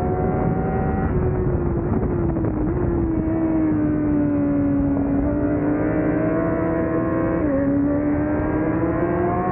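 Honda CBR1000RR-R inline-four engine heard on board at race pace, over wind rush. Its pitch steps up twice early on as it is shifted down, sinks slowly through the corner, then climbs under acceleration, with one sudden drop for an upshift near the end.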